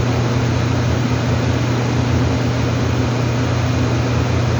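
Steady machine drone with an even hiss, holding constant throughout.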